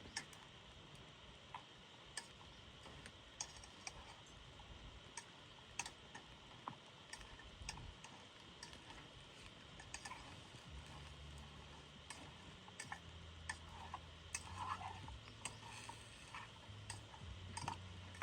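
Wood campfire crackling softly, with scattered irregular sharp pops and snaps over a faint steady hiss.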